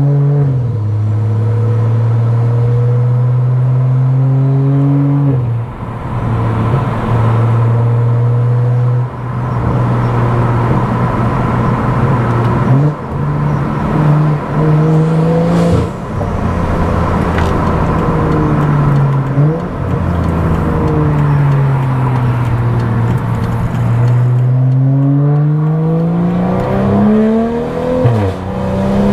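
Tuned BMW F10 535i's turbocharged 3.0-litre inline-six (N55) driving with a loud aftermarket exhaust. The engine note rises and falls again and again as it pulls through the gears, dipping briefly at each change, and climbs in a long pull near the end.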